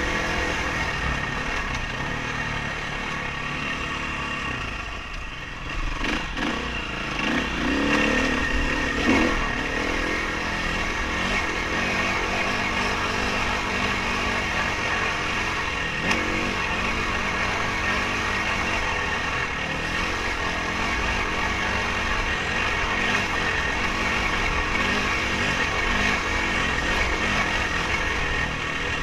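Dirt bike engine running hard, its pitch rising and falling as it revs on and off the throttle, with a few sharp knocks.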